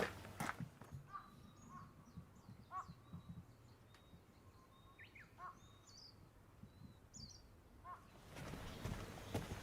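Wild birds calling faintly outdoors, with short chirps and whistled notes scattered through the middle. Knocks and rustling are heard at the start and again near the end.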